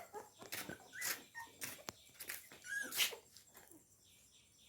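A pet dog whimpering in short, soft whines, mixed with a few sharp clicks, dying away about three seconds in.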